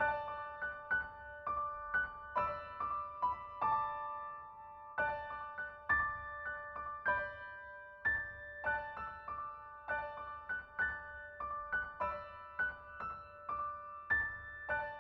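Background piano music: a gentle melody of struck notes, each ringing and fading, at about two to three notes a second.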